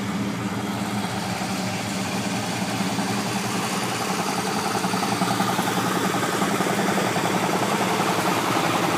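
A 1968 Dodge Charger's 440 cubic-inch V8 idles steadily with a rumble through Flowmaster 40 series mufflers, growing a little louder from about halfway through.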